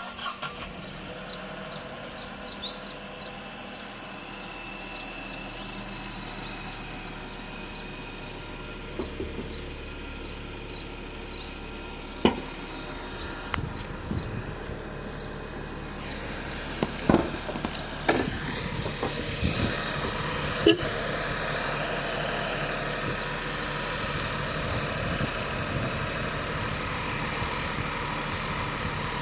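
Tata Nexon's 1.2-litre turbocharged three-cylinder petrol engine idling steadily. A light regular ticking comes about twice a second through the first half, and a few sharp knocks come in the middle.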